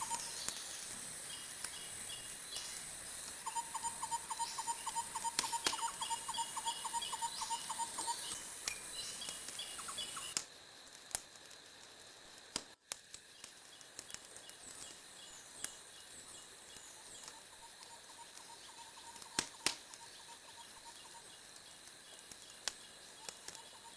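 Wood fire crackling, with scattered sharp pops; the loudest come about 11 and 19 seconds in. Faint runs of rapid chirping come and go behind it, and the whole sound drops quieter abruptly about ten seconds in.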